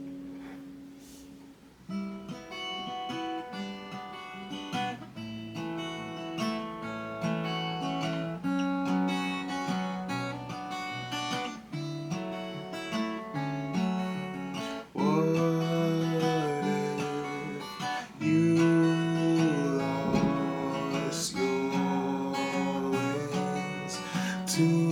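Solo acoustic guitar playing an instrumental break: a chord fades out, then picked notes start about two seconds in and get louder about fifteen seconds in.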